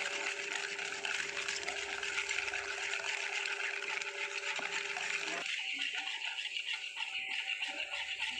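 A milk, yeast, sugar and egg mixture being mixed in a bowl, as a steady liquid swishing with a constant hum beneath. The lower part of the sound drops away about five and a half seconds in.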